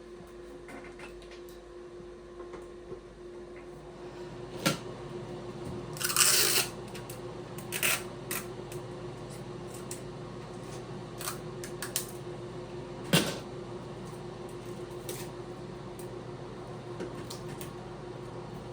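Bathroom exhaust fan running with a steady hum, while scattered sharp clicks and knocks of hands working on the fan and its housing sound over it, and there is a brief rasping burst about six seconds in.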